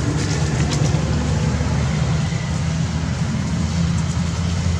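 Steady low engine rumble of a motor vehicle running, with a hiss of background noise over it.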